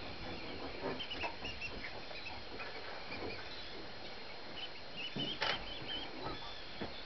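Birds calling: many short, high chirps overlapping in a continual twitter over a steady hiss. A few knocks cut through, the loudest a little after five seconds in.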